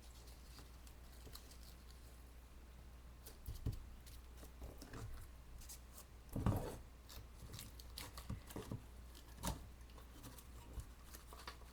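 Faint handling of crafting materials: paper flowers and pieces rustling, with scattered light taps and knocks, the loudest about six and a half seconds in, over a low steady hum.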